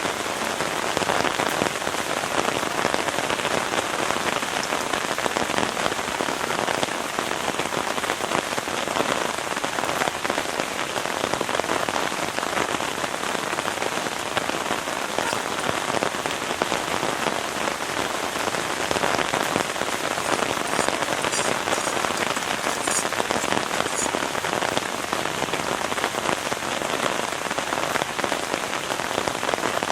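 Heavy rain falling steadily, a dense even hiss of countless drops, with a few faint high clicks about two-thirds of the way through.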